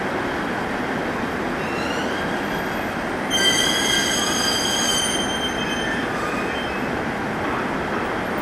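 JR East 701-series electric train pulling slowly into a station platform, its running noise steady, with a high metallic squeal from the running gear that sets in about three seconds in and fades out about two seconds later.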